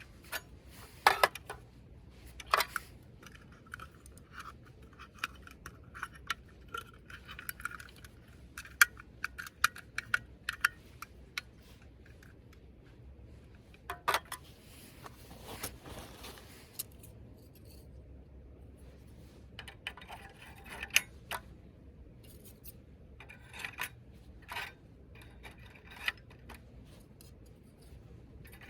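A string of small, sharp clicks, clinks and scrapes, like hard objects being handled and set down, heard over a faint steady low hum.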